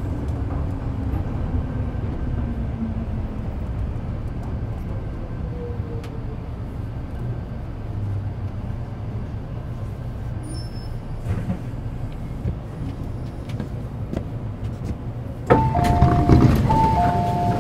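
Metro Cammell M-Train EMU with GEC GTO chopper traction, heard from on board, rumbling as it slows, with falling motor tones early on. Near the end the noise jumps suddenly and a two-tone door chime sounds, repeating: the train has stopped and its doors are opening.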